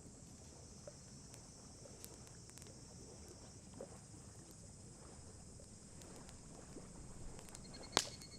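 Wood campfire crackling faintly with a few sparse small pops, then one loud sharp pop near the end. A low steady rumble runs underneath.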